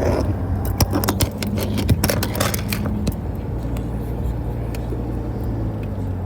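Car driving on the highway, heard from inside the cabin as a steady low road-and-engine hum. In the first half a quick flurry of sharp clicks and rattles sounds over it.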